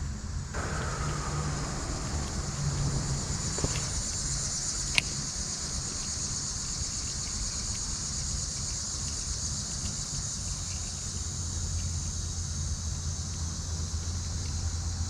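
Steady high-pitched insect chorus, with a low rumble underneath and a single sharp click about five seconds in.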